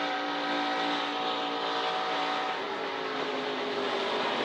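NASCAR Truck Series V8 engine heard from onboard the truck, running at steady high revs. Its pitch steps down a little just past halfway as the driver rolls out of the throttle.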